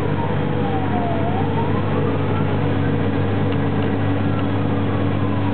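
Fire engine under way, its engine and road noise a steady loud drone, with a siren wailing over it: the tone slides slowly down, sweeps back up about two seconds in, and starts falling again near the end.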